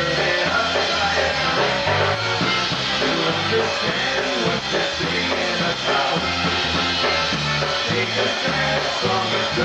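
Live polka band playing a tune, with a steady, bouncing bass line under the band.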